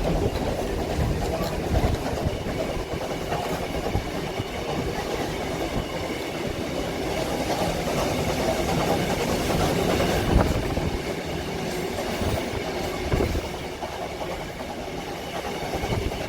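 Railway passenger train running along the track: a continuous rumble with wheels clicking and knocking over the rails, and a louder jolt about two-thirds of the way through.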